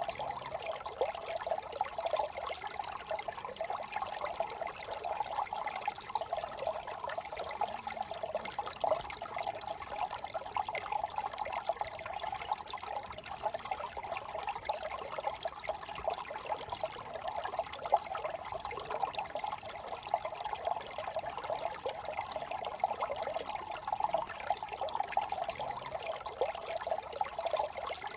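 Shallow brook trickling and babbling steadily over stones, a continuous gurgling with many small splashes.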